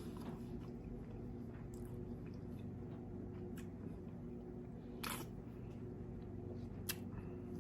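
A person chewing food quietly, with three short crisp crackles, the clearest about five seconds in, over a steady low hum.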